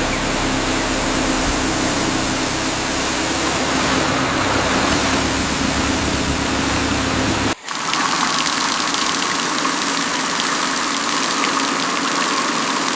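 A steady engine running with a loud hiss over it. It breaks off abruptly about seven and a half seconds in, then goes on with less low rumble and a steadier higher-pitched tone.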